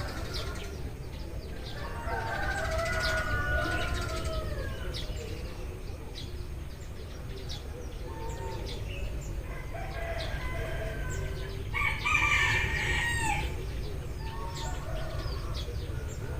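Eurasian tree sparrows chirping in short, repeated calls. A rooster crows about two seconds in and again, louder, about twelve seconds in, over a steady low rumble.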